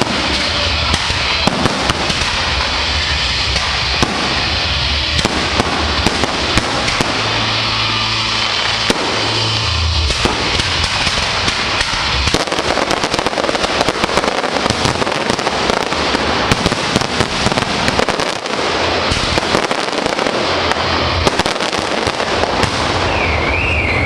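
A fireworks display going off in rapid succession: dense, continuous crackling and popping bangs. Near the end a warbling electronic alarm starts.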